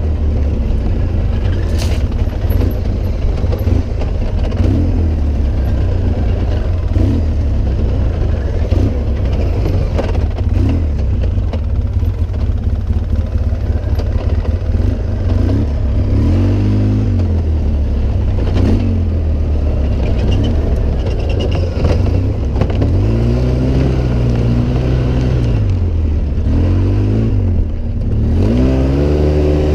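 Off-road vehicle engine under way, revving up and down repeatedly with the throttle over a steady low rumble. From about halfway in, the pitch rises and falls every second or two.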